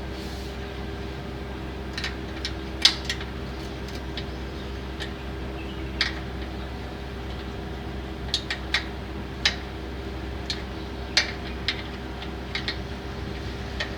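Wrench clinking on a bicycle's rear axle nuts as they are tightened back up: about fifteen sharp, irregular metal clicks, the loudest about three seconds in, over a steady low hum.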